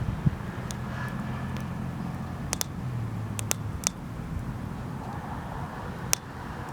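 Wood fire crackling, with a handful of sharp irregular pops over a steady low rumble.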